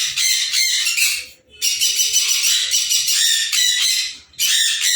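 Conures squawking and chattering in rapid, harsh high-pitched calls, breaking off briefly twice.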